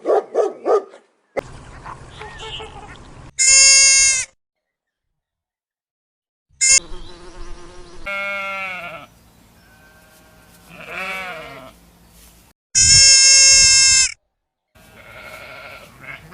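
Animal calls from several short clips cut together, with sudden silences between them; the loudest are two long, high, pitched calls, one about three and a half seconds in and one near the end.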